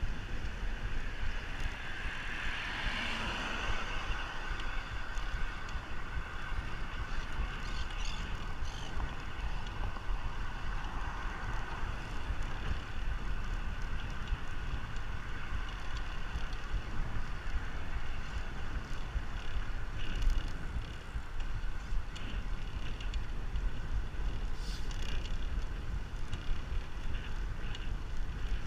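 Wind rumbling on the microphone of a moving bike, with steady road and riding noise and a few light ticks. A louder hiss swells about two to four seconds in.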